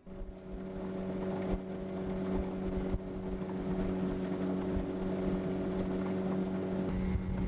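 Motorboat engine running at a steady pitch, fading in over the first second. A rougher rushing noise, like wind, joins near the end.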